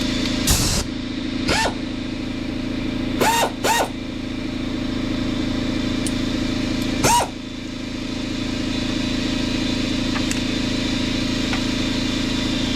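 Polaris Ranger 800 EFI XP's twin-cylinder engine running steadily at idle after a fresh oil change. About five brief sharp sounds break in over it in the first seven seconds.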